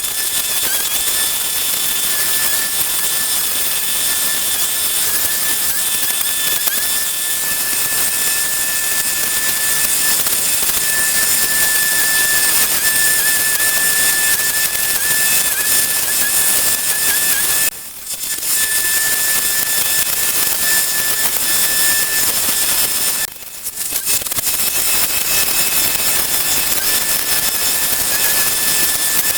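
A power tool running steadily with a loud hiss and a high, slightly wavering whine, cutting out briefly twice in the second half.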